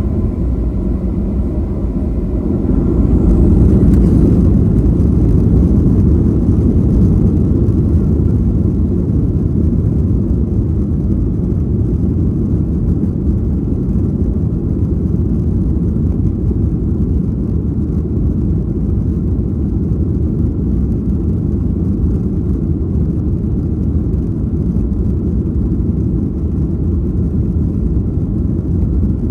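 Boeing 737-800 cabin noise from a window seat: a steady, loud, low rumble of the CFM56 jet engines and the airflow, swelling slightly a few seconds in and then holding even.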